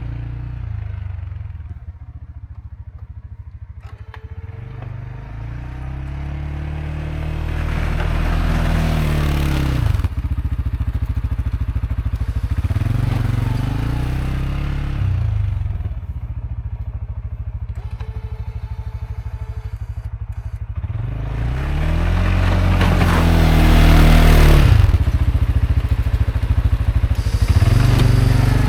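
CFMoto CForce 520L ATV's single-cylinder engine revving up and easing off several times as it pushes snow with its plow. Scraping and clatter rise with the engine at the hardest pushes, about a third of the way in and strongest near the end.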